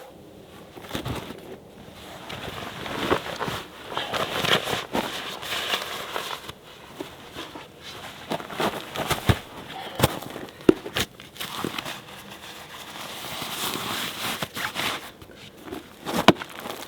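Rustling, crinkling and handling noise with many scattered sharp clicks and knocks, as of gear and packages being moved about.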